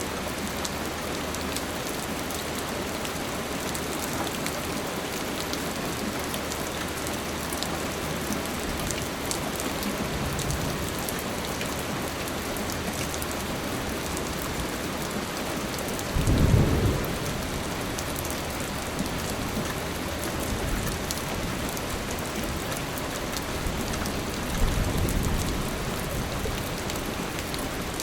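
Steady rain falling, with low rumbles of thunder: the loudest a little past halfway, another near the end.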